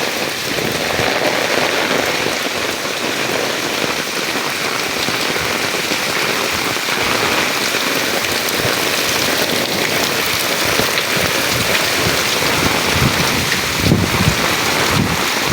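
Heavy rain falling steadily, a dense even hiss of drops hitting surfaces, with a few low thumps near the end.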